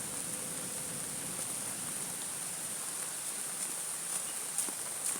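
Steady rain hissing, with a few faint drops ticking nearby.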